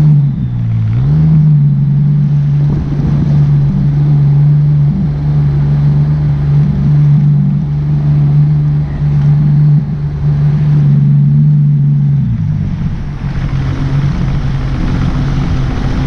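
Motorboat engine running at a steady speed, its pitch dipping and picking back up about a second in and easing slightly lower near the end, over a low rumble of wind and water.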